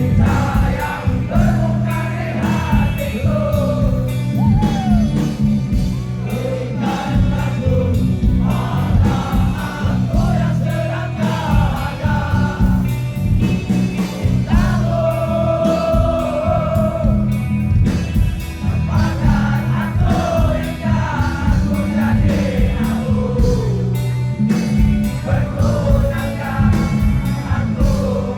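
Live rock band playing a song, a singer's voice over drums and bass, with many voices singing along.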